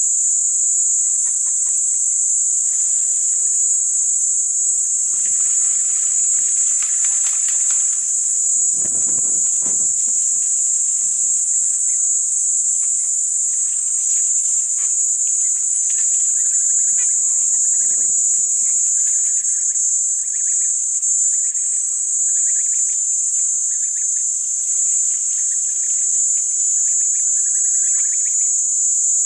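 Steady, loud, high-pitched chorus of insects, with fainter animal calls over it: a low, rougher stretch about a third of the way in, and short chirps repeating through the second half.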